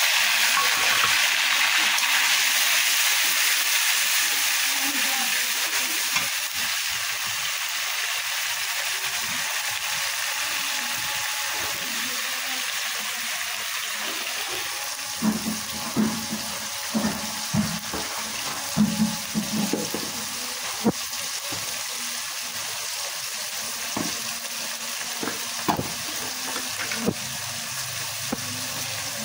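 Wet spice paste hitting hot oil in a steel karahi and sizzling loudly, the hiss easing over the first dozen seconds. From about halfway, a steel spatula scrapes and clinks against the pan as the frying masala is stirred.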